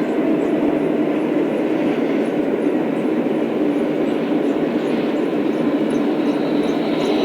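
Lionel O-scale model train running on its track: a steady rolling rumble of motors and wheels, with faint quick regular ticking over the rail joints.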